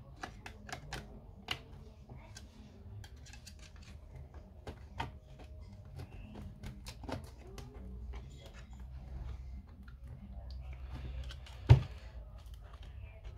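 Irregular small clicks and taps of tools and plastic parts being handled while taking apart an Apple Time Capsule, with one sharp knock near the end.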